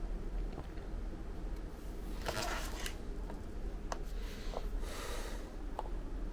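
Steady low hum of room tone with faint rustling about two and five seconds in and a few soft clicks, like things being handled.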